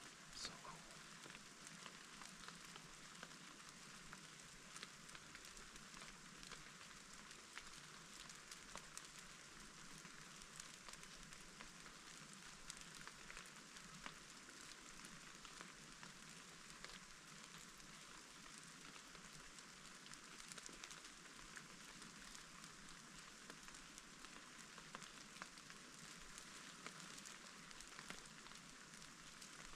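Faint, steady rain pattering, with many small drop ticks.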